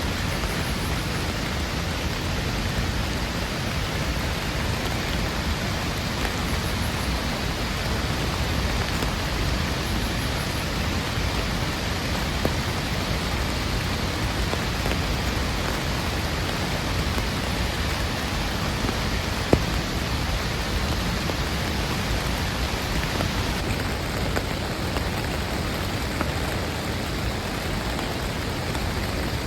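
Heavy rain falling steadily, with a few single drop taps and one sharper tap about two-thirds of the way through.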